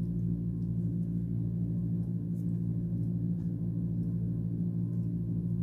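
Steady low hum made of several held tones, unchanging in loudness.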